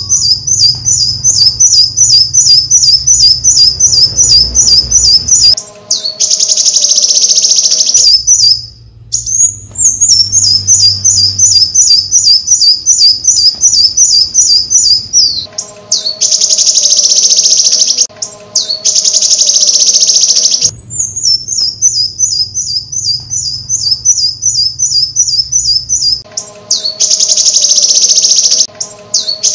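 Bird calls: loud runs of rapid high chirps, about four a second, alternating with harsh, buzzy stretches, the pattern repeating about every ten seconds.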